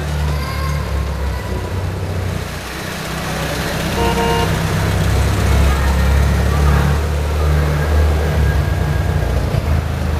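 Car engine running with a heavy, steady low rumble that grows louder about four seconds in, with a short car-horn toot at about the same moment.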